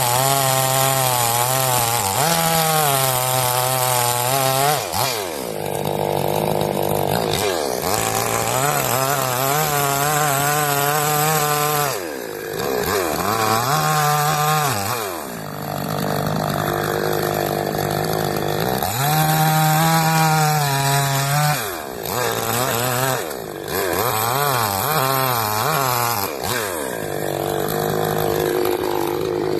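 Huyosen two-stroke chainsaw run at full throttle, its engine speed wavering under load as it cuts wood, dropping back to idle and revving up again about eight times.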